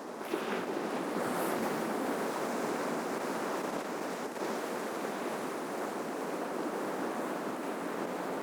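Ocean surf breaking on a shoreline: a wave crashes just after the start, then a steady rushing wash of water.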